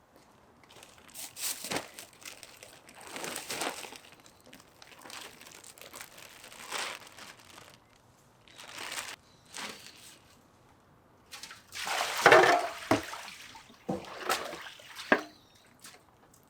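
Water sloshing and splashing in a container in irregular bursts, with some plastic crinkling; the biggest splash comes a little past two-thirds of the way through.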